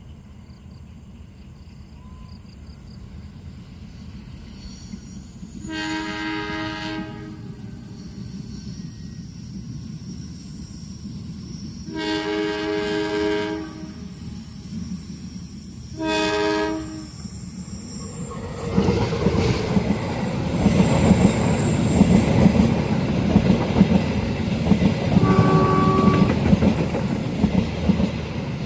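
A train approaching with a slowly building rumble, its horn sounding three times, about a second each time. From about two-thirds of the way in, the train passes close with a loud rumble and wheel clatter on the rails, with one more short horn note near the end.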